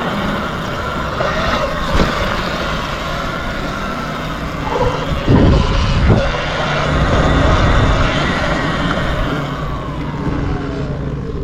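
Steady motor noise from a passing vehicle, its whine gliding down in pitch over the last few seconds, with a couple of brief thumps about five and six seconds in.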